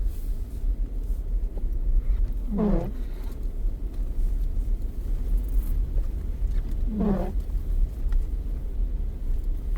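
Steady low road and engine rumble heard from inside a moving car. A short rising squeak comes twice, about every four and a half seconds.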